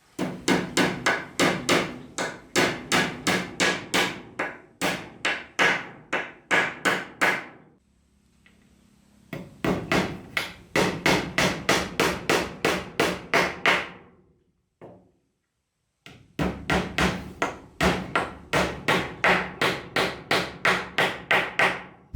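Hammer blows on wood, struck fast and evenly at about three a second in three runs with short pauses between them.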